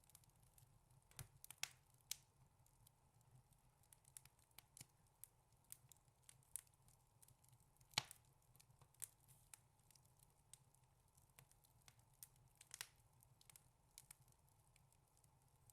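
Wood fire crackling in a fireplace: irregular sharp pops and snaps, some in quick clusters, the loudest pop about eight seconds in.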